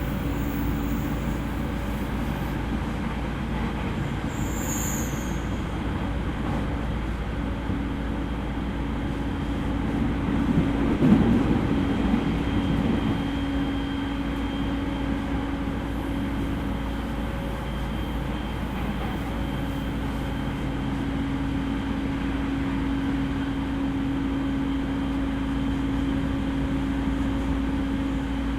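Interior running sound of an E231-series electric multiple unit under way: a steady hum with the rumble of wheels on the rails. A louder rush builds and peaks about eleven seconds in, then settles back to the steady running sound.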